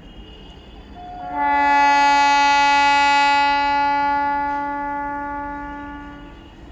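Train horn sounding one long steady blast of about five seconds, beginning about a second in with a brief higher note, then fading away toward the end over the rumble of a passing train.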